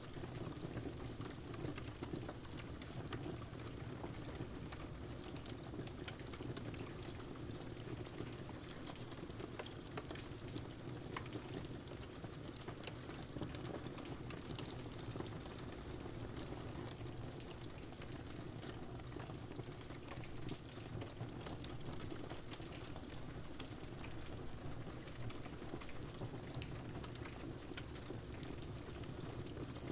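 Steady rain mixed with a wood fire crackling in a fireplace: a constant even hiss with many small scattered pops.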